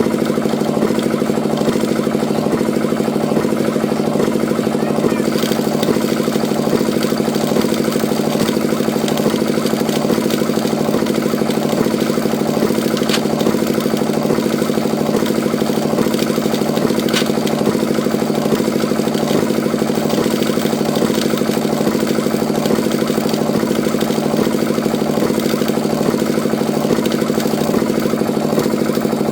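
Small engine of a homemade mini tractor water pumpset, running steadily with a fast, even beat and no change in speed.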